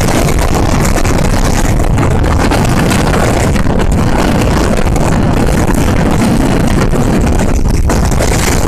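Passenger train running, a loud, steady rumble without a break.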